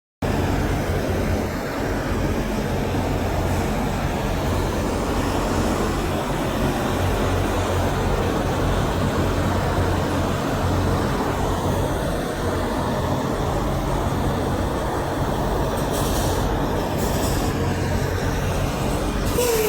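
Steady rumble of heavy road traffic with a low engine drone, semi trucks running past without sounding a horn.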